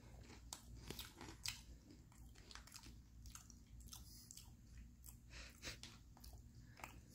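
A person chewing a crunchy Japanese rice cracker snack with a filling: faint, irregular crunches.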